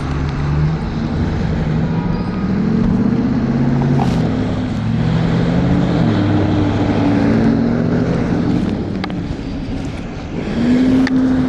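Road traffic heard from a moving scooter: several vehicle engines whose pitch rises and falls, over a steady low rumble of wind and road noise, with a few short clicks.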